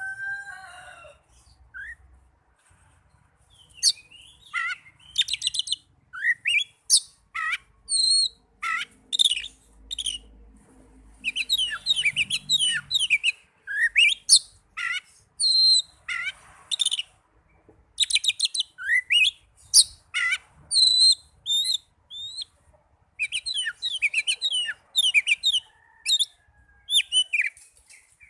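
Oriental magpie-robin (kacer) singing a varied song of rapid whistles, sharp chirps and sweeping notes, in phrases broken by short pauses.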